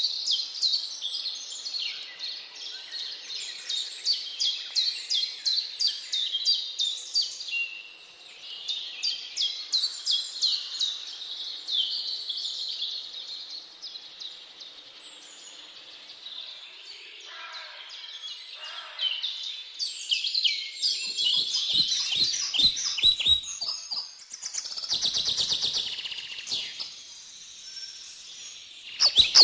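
Woodland birds singing, a dense stream of rapid high chirps and trills. In the last third, a run of quick sharp clicks joins the birdsong.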